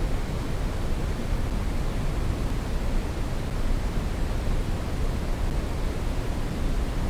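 Steady brown noise: an even, deep rushing hiss with most of its weight in the bass, unchanging throughout.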